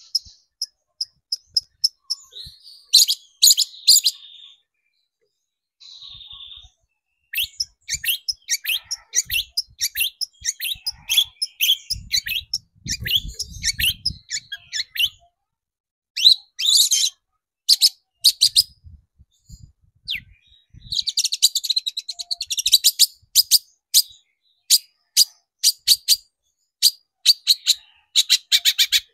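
Long-tailed shrike (cendet) singing in fast bursts of sharp, high chattering notes, with short pauses between the runs. Faint low knocks come about halfway through.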